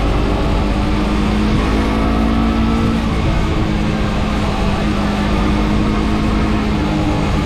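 Motorcycle engine running steadily at road speed, with wind noise heard through a GoPro Hero 8's foam case, which damps the wind roar but does not remove it.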